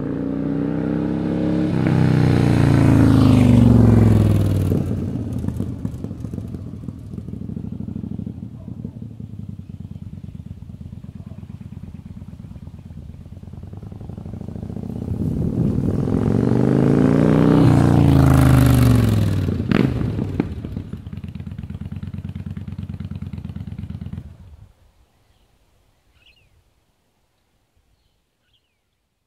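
Yamaha Star Bolt's air-cooled 942 cc V-twin running through a custom exhaust. Its pitch rises and falls twice, with a lumpy, uneven beat in between, and the engine cuts off suddenly near the end.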